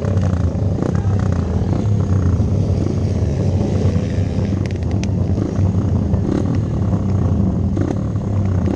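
Hero Impulse dirt bike engine running steadily under way, with wind noise over the microphone.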